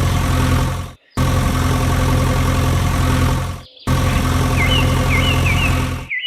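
The motor of a home-made mini tractor plough runs with a steady low hum. The sound cuts off abruptly twice, and a bird chirps a few times near the end.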